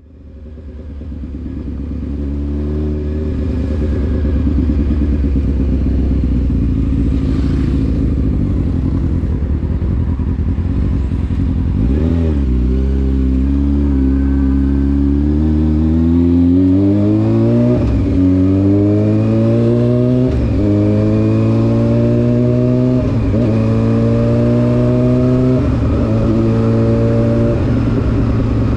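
Honda CBR600F4 inline-four engine through an SC Project aftermarket exhaust. It fades in running at low, steady revs, blips once about twelve seconds in, then accelerates up through the gears. The pitch climbs and drops sharply at each of about five upshifts.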